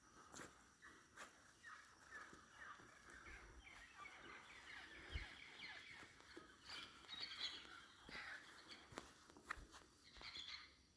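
Faint tropical-forest dawn chorus: many birds calling and chirping over one another, with a few sharp clicks.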